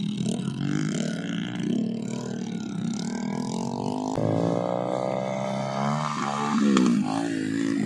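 Small motorcycle engines running under the load of heavy rice sacks. About four seconds in, one revs with a steadily rising pitch as it climbs a dirt bank.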